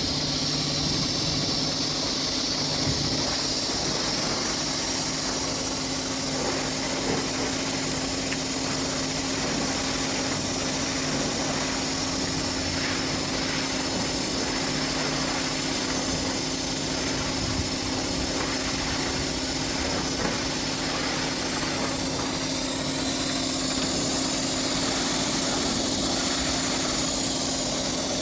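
Pressure washer running: a steady motor hum under the high hiss of the water spray.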